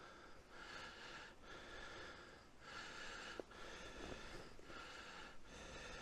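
A person breathing heavily close to the microphone, a steady in-and-out rhythm with each breath lasting about a second, with one small click midway.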